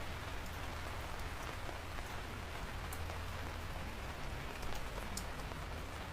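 Steady rain falling, with individual drops pattering sharply on a surface over a low rumble.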